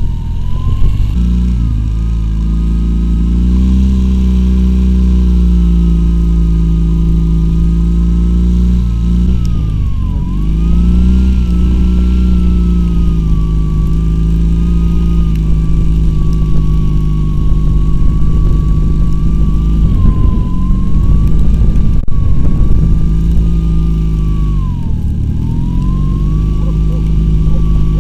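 Homemade quad bike's two-cylinder Oka car engine running under load, its revs dipping sharply and climbing back twice, with a high whine that rises and falls with the revs.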